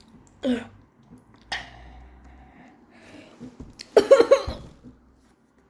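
A person coughing and clearing their throat while eating very spicy noodles: two short coughs early, then a louder, harsher coughing fit about four seconds in.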